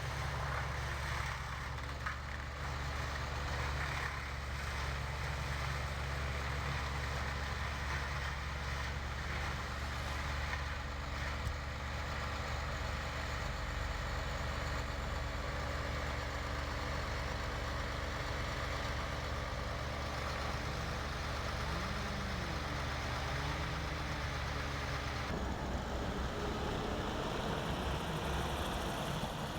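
A large engine running steadily at a low drone, with an abrupt change in its sound about 25 seconds in.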